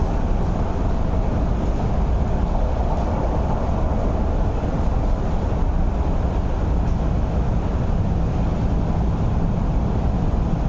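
Cabin running noise of an MTR East Rail Line R-train (Hyundai Rotem electric multiple unit) heard from inside the passenger car. It is a steady low rumble of wheels on rail and running gear, holding at an even level.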